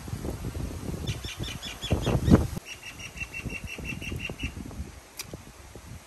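A bird calling in two quick runs of short repeated notes, the first about a second in and a lower one in the middle, about six notes a second. Under the first run is low rumbling noise with a thump, which stops soon after.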